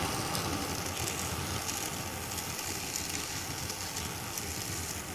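Brazing torch flame with a steady hiss as copper refrigerant joints at a replacement TXV are brazed with nitrogen flowing through the lines.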